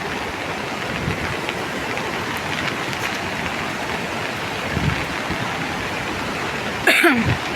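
Steady rushing noise of water, the sound of a river in flood under rain. About seven seconds in, a short sound slides steeply down in pitch over it.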